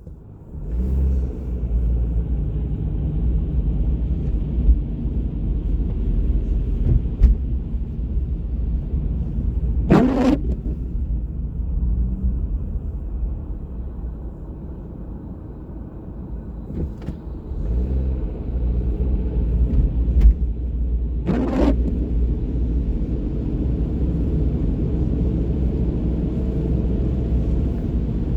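Steady low rumble of a car on the road, easing off for a few seconds midway and then picking up again. Two sharp knocks cut through it, one about ten seconds in and one a little past twenty.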